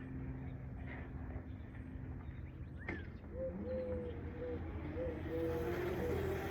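Small electric motor of a child's ride-on motorbike whining in short spurts, about three a second, starting about halfway through and running steadier near the end, over a steady low hum.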